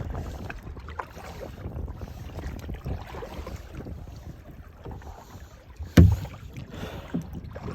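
Kayak on the water: paddling and water sloshing with wind buffeting the microphone, a low irregular rumble. One sharp knock about six seconds in, the loudest sound.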